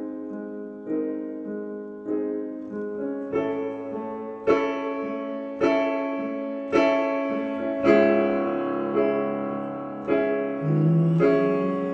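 Piano or electric keyboard playing chords alone, a new chord struck about once a second and left to ring and fade.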